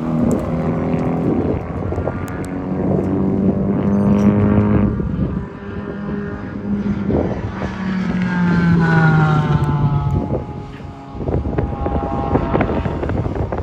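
Car engines at high revs passing on a race track. A first run climbs in pitch and breaks off about five seconds in; a second car's engine note falls in pitch as it goes past, fading near the end.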